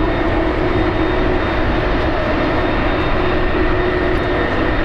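Airbus Beluga XL's Rolls-Royce Trent 700 turbofan engines at takeoff power on departure: a loud, steady jet roar with a droning tone running through it.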